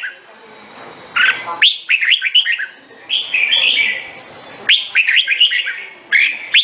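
Red-whiskered bulbul singing: bursts of quick, downward-sweeping whistled notes, each phrase about a second long, with short pauses between phrases.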